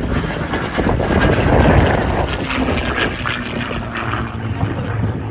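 P-51 (TF-51) Mustang's Rolls-Royce Merlin V-12 engine and propeller running loud as the fighter flies past, growing louder to a peak about two seconds in, then easing.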